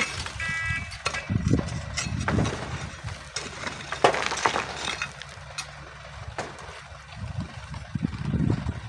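A truck's reversing alarm beeps twice, cutting off about a second in. After that come uneven gusts of strong wind buffeting the microphone, with a few scattered knocks and scrapes.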